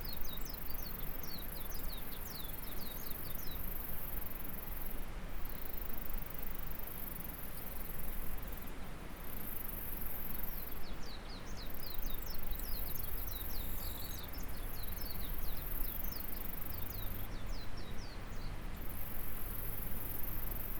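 A steady high insect buzz with a few short breaks, over the even rush of a stream. A small bird sings fast trilled phrases twice, once at the start and again from about ten seconds in.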